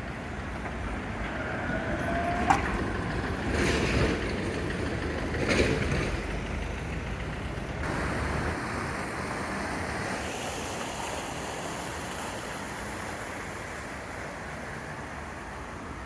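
City street traffic: vehicles passing in a steady wash of noise, with a short rising whine ending in a sharp click about two and a half seconds in and two louder passes soon after.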